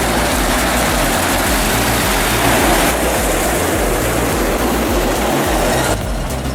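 Heavy diesel machinery running loud and steady, with a dense mechanical noise that cuts back suddenly about six seconds in.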